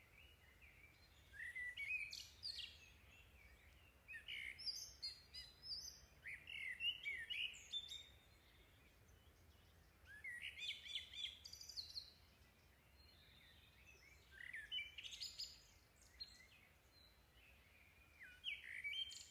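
Faint birdsong: short clusters of high chirps and twitters every few seconds, with quiet gaps between them.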